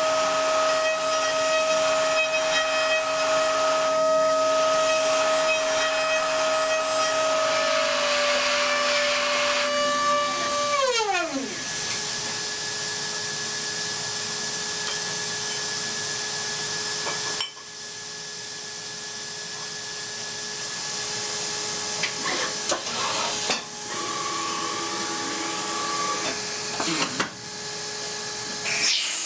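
High-frequency spindle of a DATRON M8Cube CNC mill whining at a steady pitch while high-speed milling aluminium, over a hiss of cutting noise. About 11 s in, the whine falls sharply in pitch as the spindle slows, then holds at a new lower steady speed, with brief drops in the cutting noise a few times afterwards.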